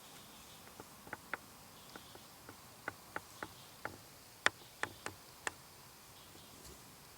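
About a dozen short, sharp clicks or ticks at irregular spacing, starting about a second in and stopping a little after the middle, the loudest about halfway through.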